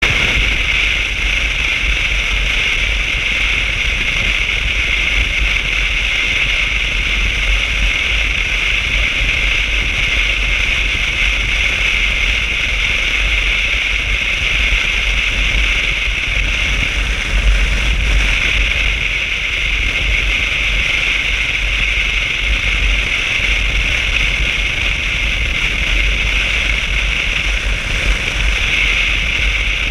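Motorcycle on the move: a steady rush of wind and road noise with a low rumble underneath.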